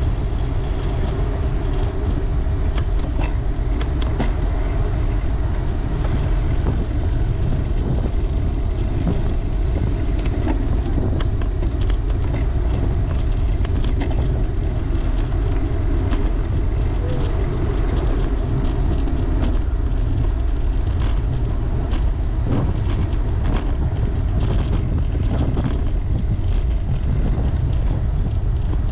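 Steady wind rumble buffeting a camera microphone while riding a bicycle, with scattered light clicks and rattles.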